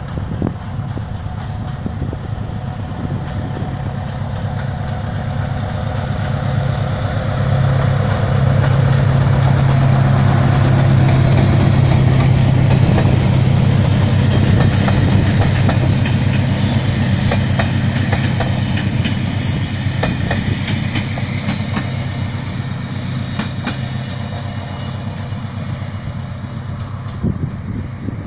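Diesel locomotive hauling passenger coaches past: a steady low engine drone that swells about eight seconds in, with the wheels clicking over rail joints as the coaches go by, then fading slowly as the train draws away.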